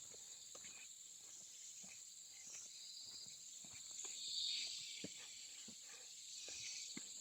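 Rainforest insect chorus: a steady high buzz that swells about four seconds in, with scattered light crunches and taps of footsteps on the forest floor.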